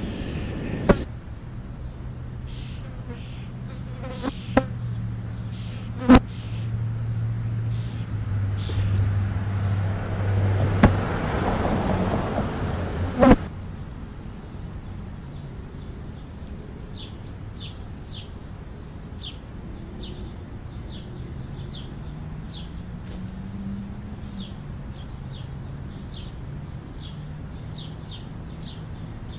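A low droning hum that steps down slightly in pitch, broken by several sharp knocks, gives way about halfway through to a long run of quick, short bird chirps over a fainter, wavering hum.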